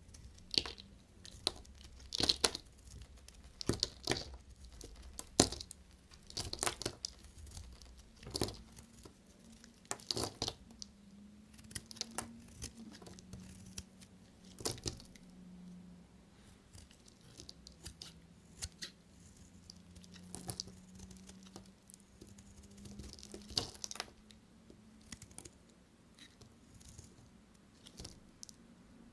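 Soap packaging being unwrapped close up: irregular crinkling and tearing of the wrapper, denser and louder at first, then sparser. A faint steady hum runs underneath from about a third of the way in.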